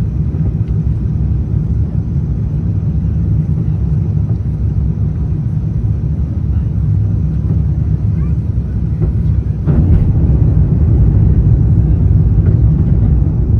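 Airbus A350-900 cabin noise heard from inside the cabin: a steady low rumble of engines and airflow that gets suddenly louder about ten seconds in and stays louder.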